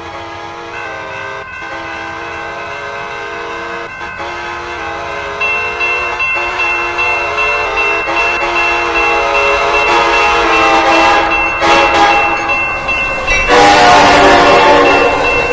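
Train horn sounding a long chord of several notes, broken by a few short gaps and growing louder as the train approaches; about thirteen and a half seconds in, the loud rush of the train passing close takes over.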